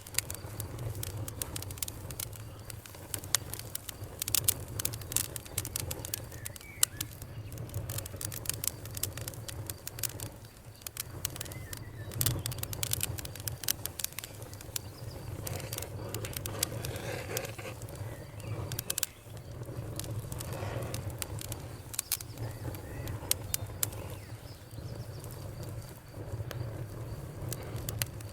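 Fire crackling: frequent irregular sharp pops and snaps over a steady low rumble.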